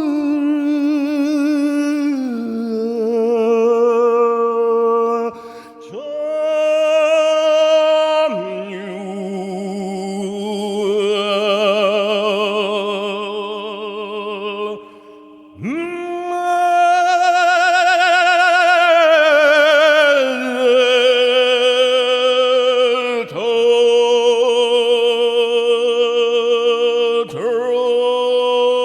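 Wordless sung toning: several overlapping voices holding long vowel notes with vibrato in a slow chord. The notes shift pitch every few seconds, with brief breaks between phrases.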